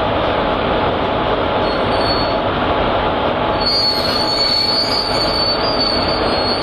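Railway wheels squealing on the rails under a loud, steady rumble of a train moving slowly. A high, thin squeal fades in the middle and comes back strongly about four seconds in.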